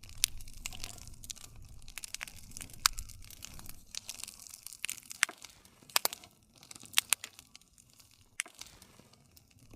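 Wood fire crackling: a low, steady rush of flames with scattered sharp pops and snaps. The loudest pops come about three seconds in and twice near the middle. The sound starts suddenly.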